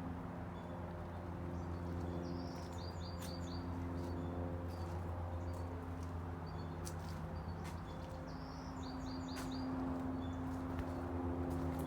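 A bird chirping twice, each time a quick run of about four short high notes, over a steady low mechanical hum.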